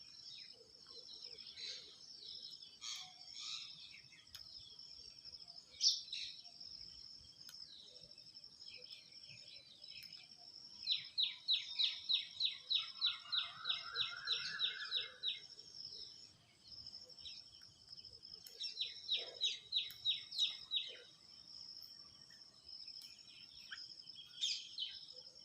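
Steady high insect drone with scattered bird calls. Two runs of quick, sharp chirps, about four a second, come about eleven seconds in (lasting some four seconds) and again, shorter, about nineteen seconds in.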